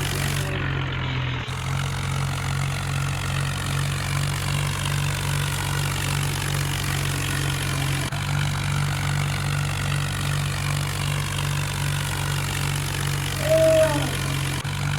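Tractor engine running steadily with a regular throb, with a brief voice near the end.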